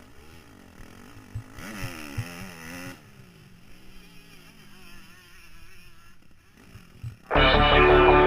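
Motocross dirt bike engine revving up and down, loudest about two seconds in, with low thumps on the microphone. Loud music cuts in abruptly near the end.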